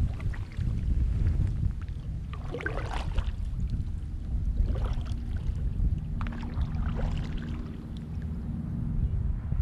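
Kayak paddle strokes splashing in the water, three strokes about two seconds apart, over a steady low rumble of wind on the microphone.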